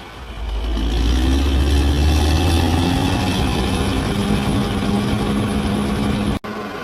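Large bulldozer's diesel engine working under load: it picks up just after the start into a deep steady drone, with the engine note strengthening partway through. The sound cuts out for an instant near the end, then resumes a little quieter.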